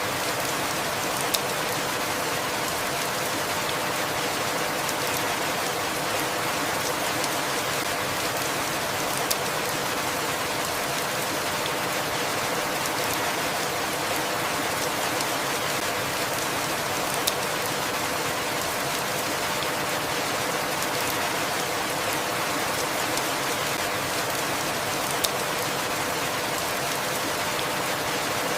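Steady rainfall, an even continuous hiss, with a single sharp tick about every eight seconds.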